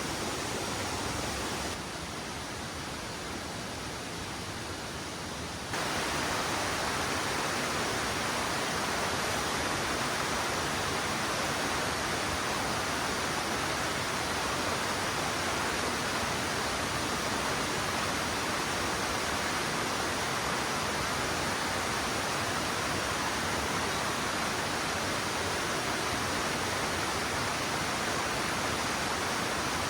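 Steady rush of a mountain valley stream, an even wash of water noise. It drops quieter about two seconds in and comes back louder about six seconds in.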